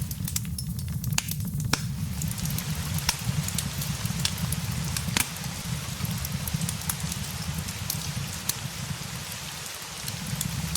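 Steady rain hiss mixed with a crackling fireplace: irregular sharp snaps and pops over the rain, with a steady low rumble underneath.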